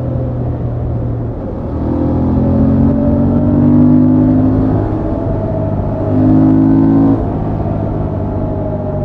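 Honda XL750 Transalp's 755 cc parallel-twin engine through the stock exhaust, riding at steady speed. It gets louder under throttle about two seconds in for about three seconds, then again about six seconds in for about a second, cutting off suddenly as the throttle closes.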